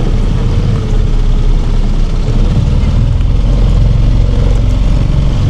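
Small hire motorboat's engine running steadily under way, a loud, even low hum.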